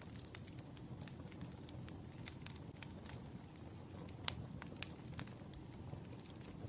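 Wood fire crackling: a steady low rumble of burning logs with irregular sharp pops and snaps, the loudest a little after four seconds in.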